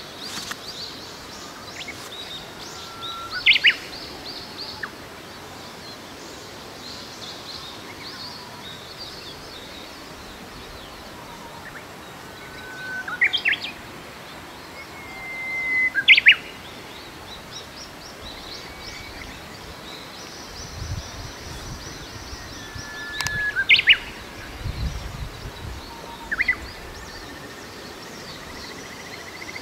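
Wild birds singing outdoors: a repeated phrase of a short held whistle ending in a quick sharp flourish, sounding about four times, over fainter high twittering trills. Two brief low rumbles come in the second half.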